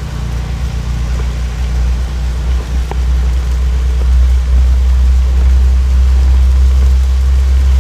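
Low steady drone of a Freightliner Cascadia's Detroit diesel engine heard inside the truck's cab, growing louder over the first few seconds and then holding steady.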